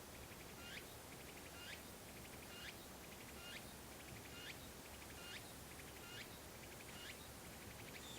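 A faint animal call repeated about once a second, nine times: each a quick run of clicks ending in one sharp sweep, over a low steady hiss.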